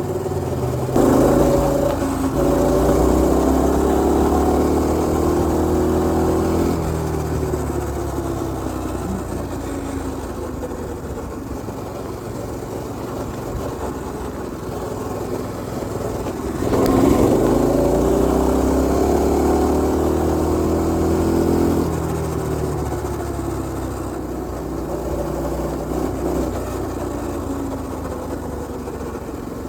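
Predator 212 single-cylinder four-stroke engine on a mini bike being ridden: the throttle opens twice, about a second in and again past halfway, each time pulling hard for about six seconds before easing back to a lower, steadier running sound.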